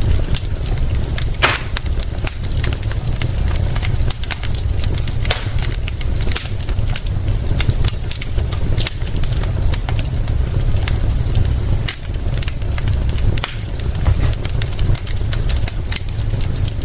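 Wood fire crackling, with sharp pops at irregular intervals, one of the loudest about a second and a half in, over a steady hiss of rain and a continuous low rumble.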